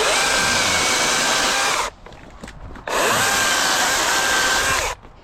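DeWalt 60-volt brushless battery chainsaw with a 16-inch bar running at full speed in two bursts of about two seconds each, about a second apart, bucking firewood logs. Its motor and chain make a steady high whine with no engine note.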